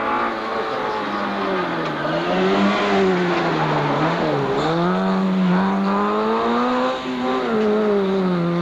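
Autobianchi A112 rally car's four-cylinder engine revving hard, its pitch rising and falling as the driver works through the gears and lifts. There is a sharp dip in revs about four seconds in, then it climbs again.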